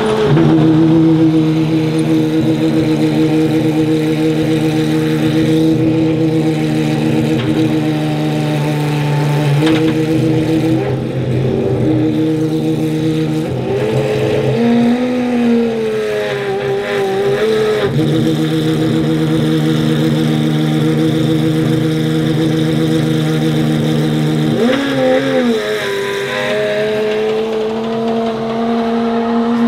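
Pagani Huayra R's naturally aspirated V12 running at low, steady revs while the car creeps along. The pitch rises and falls briefly in the middle, blips once about five seconds from the end, then climbs slowly as the revs build.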